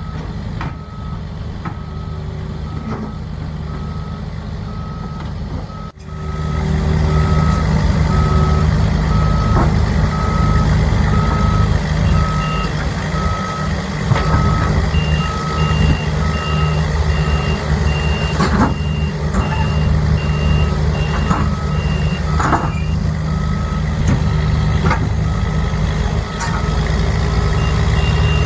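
Reversing alarms of heavy construction machines beeping steadily, about three beeps every two seconds, over the low rumble of diesel engines that gets louder after a cut about six seconds in. A second, higher-pitched alarm joins partway through, and a few clanks sound about two-thirds of the way in.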